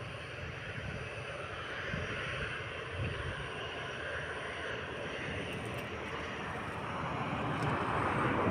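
Jet airliner engines running, a steady rumble and hiss that grows louder over the last second or two.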